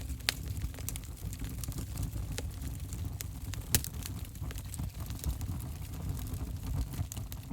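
Wood fire burning in an open fireplace: a steady low rumble of flames with irregular sharp crackles and pops, the loudest pop a little before the middle.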